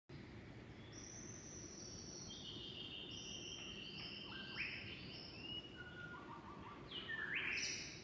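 Several rainforest birds calling with high, clear whistled notes, some held and overlapping, over a steady low background noise. The calling grows busier in the second half and is loudest near the end.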